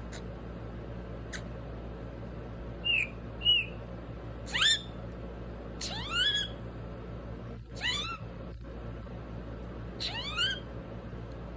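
Parrot giving about six short, meow-like calls, each rising in pitch.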